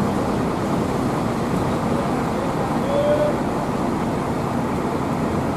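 Steady din of road vehicles and traffic at a bus terminal, with faint distant voices.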